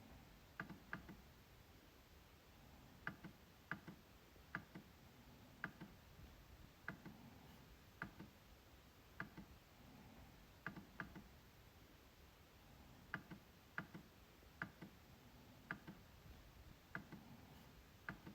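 MacBook trackpad being clicked: faint, sharp single clicks at irregular intervals about once a second, some in quick double-click pairs.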